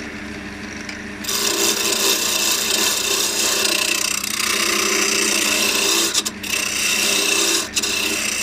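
Wood lathe running with a steady motor hum while a turning tool cuts the spinning elm blank, roughing it to round. The hissing cut starts about a second in and runs on with two brief breaks near the end.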